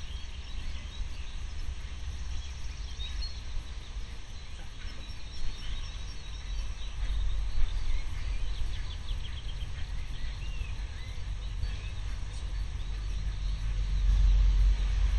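Birds chirping and singing in many short notes, over a steady low rumble that grows louder near the end.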